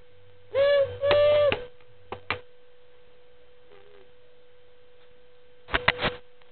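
A small child imitating a train whistle: two short, loud, held 'toot' notes at a steady pitch about half a second in, followed by a few light clicks of toy trains being handled and a small clatter near the end.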